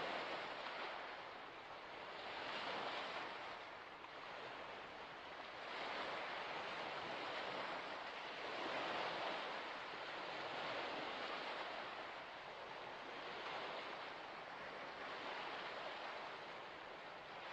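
Waves washing against a shore, a continuous rush of water that swells and eases every few seconds.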